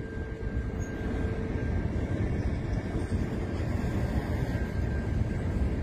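Freight train rolling past, a steady low rumble with a faint high tone held through most of it.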